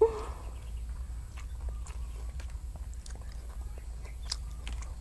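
A person chewing grilled fish close to a clip-on microphone, with scattered soft wet clicks from mouth and fingers.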